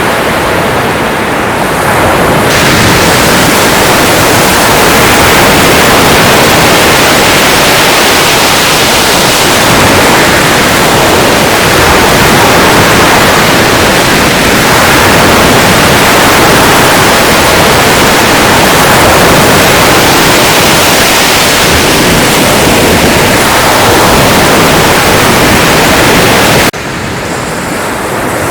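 Loud, continuous rush of sea surf, a dense hiss of breaking water. It swells about two and a half seconds in and drops off suddenly about two seconds before the end.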